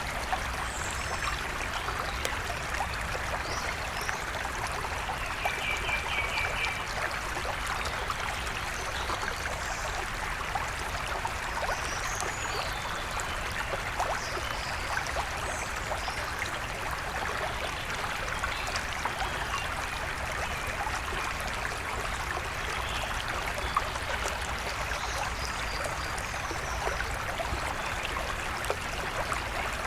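River water flowing steadily, with scattered wild bird calls above it, including a quick run of about six short notes about six seconds in.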